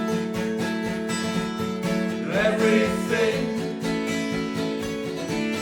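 Acoustic guitar strummed and held under a sung phrase: an unplugged indie song.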